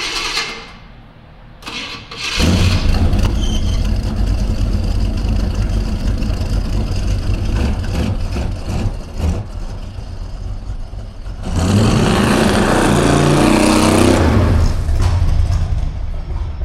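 The Roadkill Caddy Gremlin's engine catches with a sudden loud start about two seconds in and runs loud. It revs up louder for a few seconds near the twelve-second mark, then settles back.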